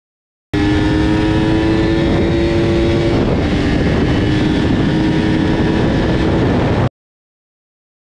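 Yamaha R1's inline-four engine with a Termignoni exhaust held at high revs at speed, a loud steady engine note over heavy wind noise, dipping slightly in pitch about halfway. It cuts in abruptly about half a second in and cuts off suddenly near the end.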